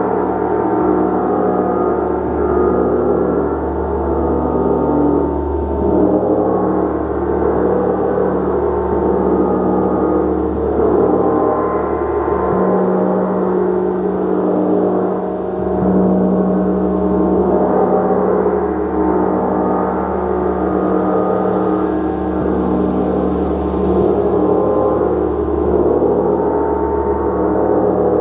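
Large gong being played continuously, a dense, sustained shimmering wash of many overlapping tones that swells and wavers without dying away.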